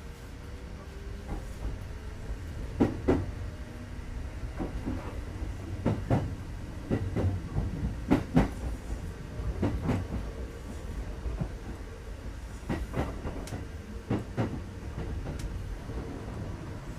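Kintetsu 2430 series electric train car running on the line, heard from inside: a steady low rumble with repeated rail-joint clacks every second or two.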